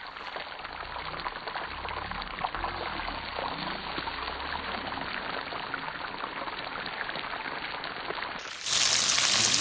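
Flowing water of a waterfall and its stream, a steady rush that grows slowly louder. About nine seconds in it jumps suddenly to a much louder, fuller rush.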